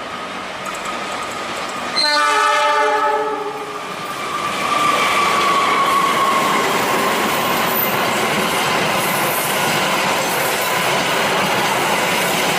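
The Argo Sindoro passenger train's horn sounds one multi-tone blast about two seconds in. The train then runs past loudly over the tracks with a steady rush, and a faint tone slowly falls in pitch.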